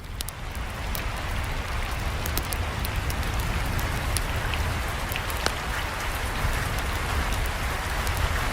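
Steady rain falling, with many small sharp ticks scattered through it, fading up over the first second. A campfire crackling may be mixed in among the ticks.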